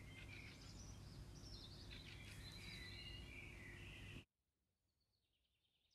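Faint songbird chirps over a steady low outdoor background noise, which cuts off abruptly about four seconds in, leaving near silence.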